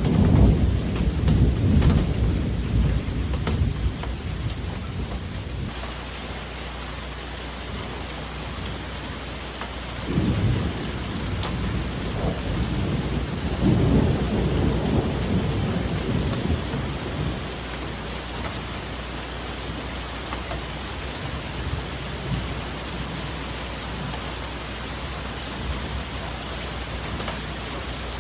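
Steady rain falling on forest foliage, with deep thunder rumbling: a loud roll at the start dying away over about six seconds, a short one about ten seconds in, and another swelling and fading a few seconds later.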